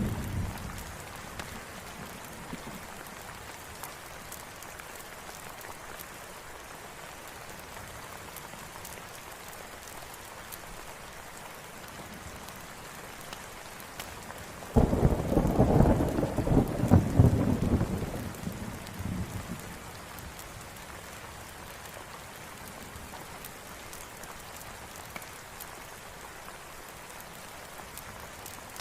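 Steady rain falling, with a rumble of thunder that breaks in suddenly about halfway through and rolls on for about four seconds before fading back into the rain.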